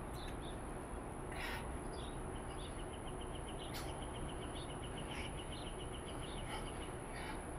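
Outdoor ambience: a steady low background noise with a few short bird chirps, and a rapid, even ticking trill in the middle lasting about four seconds.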